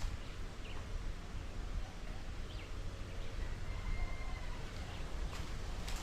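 Rural outdoor ambience: a few short bird chirps and a faint held whistle over a steady low rumble, with a couple of sharp clicks near the end.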